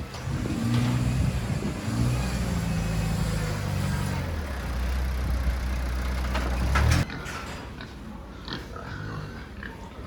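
A truck's motor runs with a low hum that shifts pitch in a few steps, then cuts off suddenly about seven seconds in.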